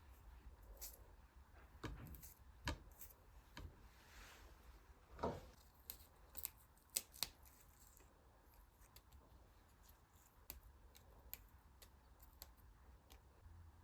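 Faint, scattered small clicks and snips of objects being handled, with a few sharper ticks around the middle.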